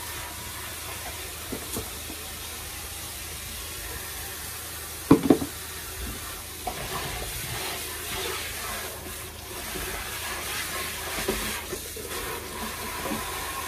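Steady sizzling hiss of food cooking in a pan, with two sharp knocks about five seconds in.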